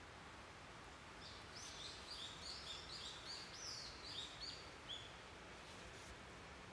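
A small songbird singing a quick run of short, high chirping notes for about four seconds, over a faint steady hiss.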